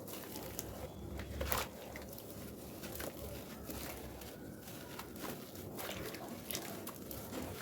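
Wet red sand paste being worked and crumbled, a steady soft crackle with scattered sharp crunchy clicks; the loudest crunch comes about one and a half seconds in.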